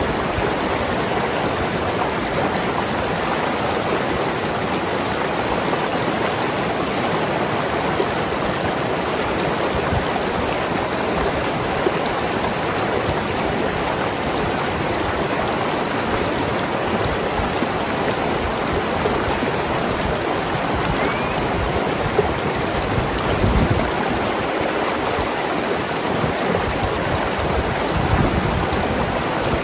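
Mountain river running over rocks, a steady rushing and gurgling of water.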